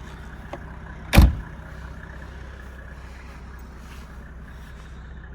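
1995 Mercedes-Benz E300 Diesel's straight-six diesel engine idling with a steady low rumble, and a single loud thump about a second in.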